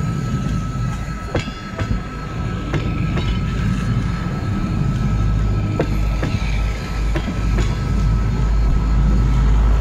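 Passenger train carriages rolling past at close range: a steady rumble of wheels on the rails with irregular sharp clicks and a thin steady high whine, the rumble growing louder near the end.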